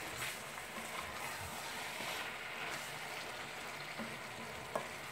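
Steady, faint sizzling hiss of a tomato stew with sliced peppers and onions frying in a pot, with one light click of the stirring spoon near the end.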